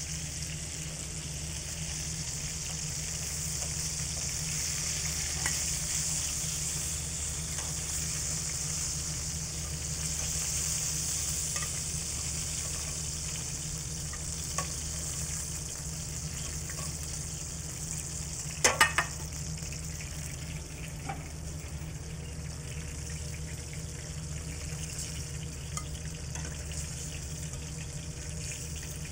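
Flour-dredged chicken pieces sizzling steadily as they pan-fry in olive oil in a stainless sauté pan. Scattered clinks of metal tongs on the pan come as the pieces are turned and lifted out; the loudest is a quick cluster of clicks about two-thirds of the way through.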